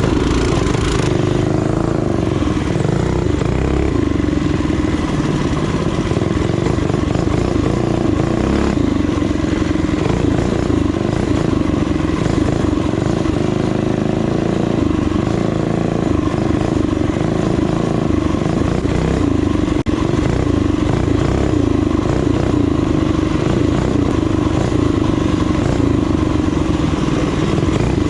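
Small single-cylinder four-stroke minibike or trail-bike engine running steadily under way, its pitch wavering slightly with throttle, over a dense low rumble of wind on the microphone.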